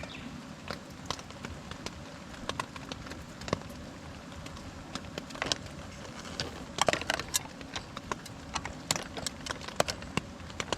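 Wood campfire crackling, with irregular pops and snaps over a steady background hiss and a brief flurry of snaps about seven seconds in.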